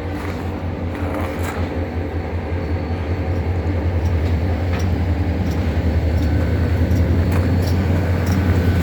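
Large diesel engine running at a steady idle: a deep, throbbing rumble that grows a little louder, with a few light clicks over it.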